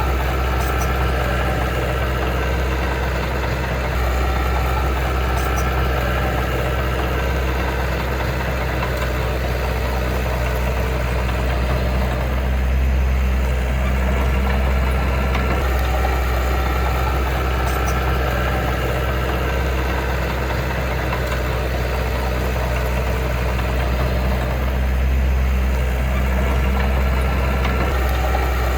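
Heavy diesel engine of earth-moving machinery idling steadily, a deep even drone that swells slightly a couple of times.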